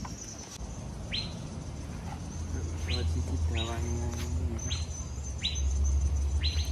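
A bird chirping outdoors, about six short chirps spaced roughly a second apart, over a low steady rumble.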